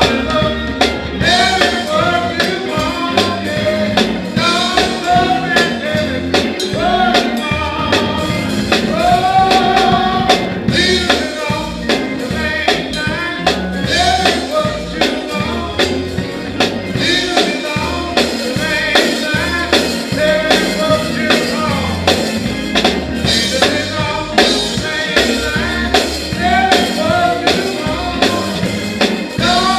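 Church band playing a gospel song with a voice singing over a steady drum beat.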